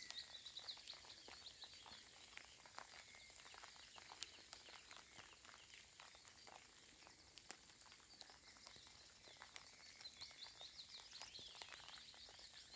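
Faint light rain, soft raindrops ticking irregularly, with small birds chirping quietly in the background, more of them near the start and in the last few seconds.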